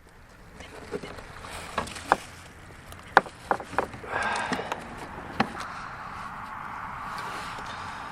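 Scattered sharp knocks and clicks of things being handled against a plastic kayak, followed by a steady hiss from about halfway through.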